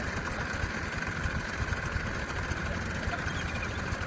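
Tractor engine running steadily, its low pulsing even throughout.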